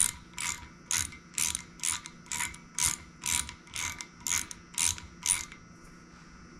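Ratchet wrench clicking in short runs, about two a second, as it turns a 3/8-16 thread chaser through an exhaust-manifold bolt hole in a Chevy 327 cylinder head to clean the threads. It stops a little past five seconds in.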